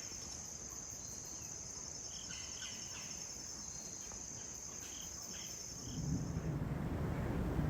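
Insects, likely crickets, trilling steadily at a high pitch, with a few soft chirps. About six seconds in, the trill fades out and a louder, even rushing noise takes over.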